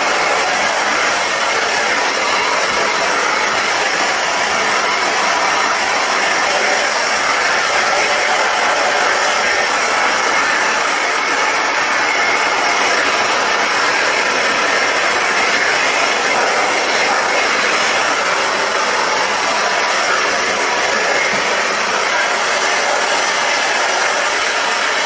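Dyson Airwrap with its blow-dryer attachment running steadily as it dries wet hair: an even rush of air with a faint, very high steady whine above it.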